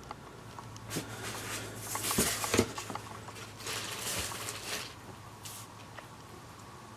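Faint rustling and scuffing with a few light clicks, over a steady low hum.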